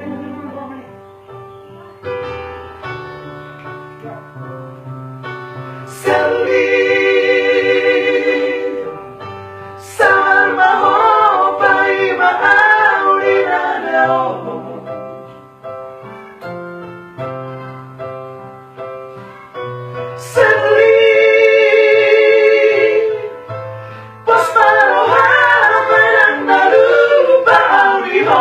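A Batak vocal trio singing a song in close three-part harmony, with phrases that come in loud and alternate with quieter instrumental passages of fading notes over a bass line.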